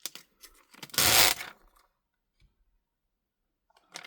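Small clicks and taps of handling the opened tablet during the repair, with one short, loud rustle-like noise about a second in.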